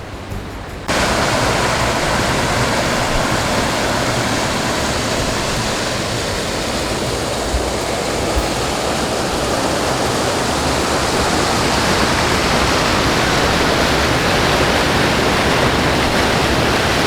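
Loud, steady rush of water pouring down a man-made waterfall at a dam, starting abruptly about a second in.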